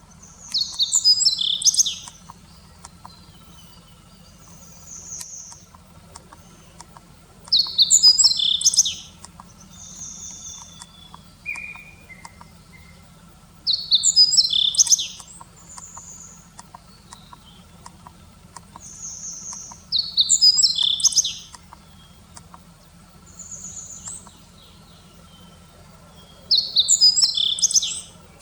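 A songbird singing the same short, rapid, high phrase five times, about every six and a half seconds, with brief single call notes in between.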